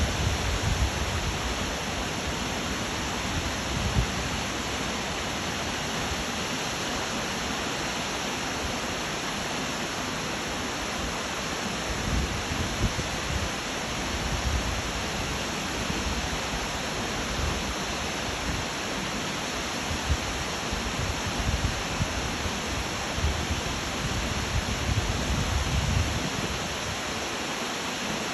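Waterfall rushing steadily, a dense, even hiss of falling water, with uneven low rumbling that swells and fades.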